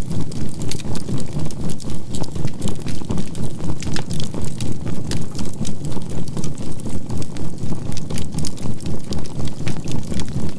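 Burning charcoal fire crackling with frequent small irregular pops, over a steady 528 Hz tone and a low hum that throbs about three times a second (binaural beat).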